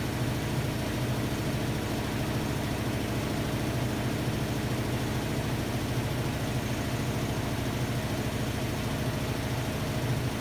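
Hotpoint-Ariston AQD972F washer-dryer running with a steady low hum and a faint even tone above it.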